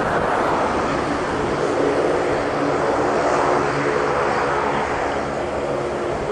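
Airplane engine noise: a loud, steady rush with a faint hum underneath.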